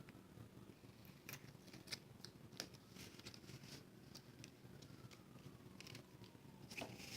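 Faint handling of cardstock and adhesive: a few small scattered clicks and crinkles, close to silence.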